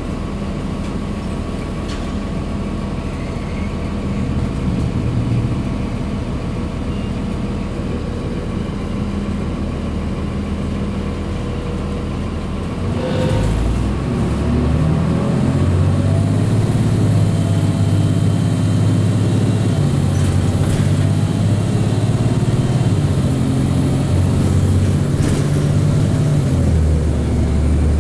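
Cummins ISC diesel engine of a 2002 Blue Bird CS transit bus idling steadily, then about halfway through growing louder as the bus pulls away. Its pitch rises and steps as the Allison automatic transmission shifts, and a faint high whine runs along with it.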